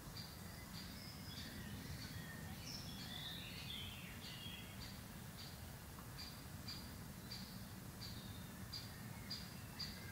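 Small birds chirping outdoors: varied high chirps at first, then one short high note repeated about every half second from around four seconds in. A faint, steady low rumble runs underneath.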